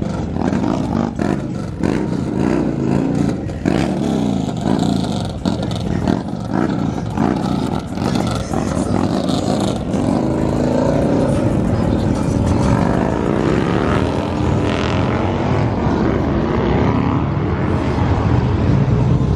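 Vehicle engines revving, with rapid sharp pops in the first half. From about halfway the engine note turns steadier and louder, its pitch rising and falling with the throttle.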